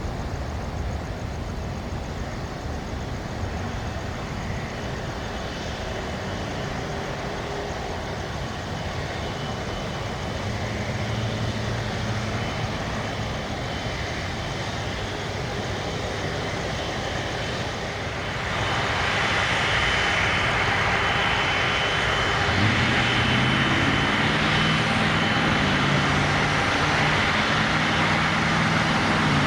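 Jet airliner engines at an airport, a steady rumble that grows louder about two-thirds of the way through as a thin high whine and shifting low engine tones join in.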